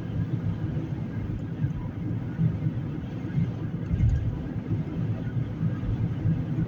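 Steady low rumble of a car driving along a city street, road and engine noise heard from inside the cabin.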